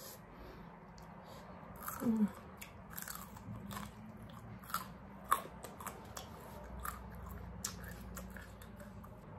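Close-up mouth sounds of a person biting and chewing crunchy raw carrot slices: a run of short, crisp crunches and smacks, irregularly spaced. There is a short low vocal sound about two seconds in.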